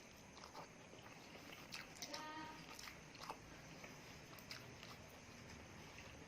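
Faint chewing and mouth sounds of someone eating, with scattered small clicks and a short pitched squeak about two seconds in.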